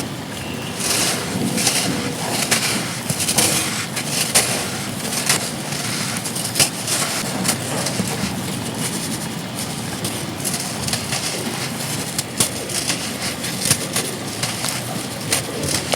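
Chunks of pure sand crumbling and crunching, a dense run of irregular sharp crackles, over a steady noise of wind and rain.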